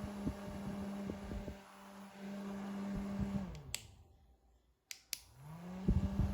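Small 310 DC motor of a homemade hand-held fan running with a steady hum, switched off about three seconds in and winding down, then after a few sharp clicks switched on again and spinning back up.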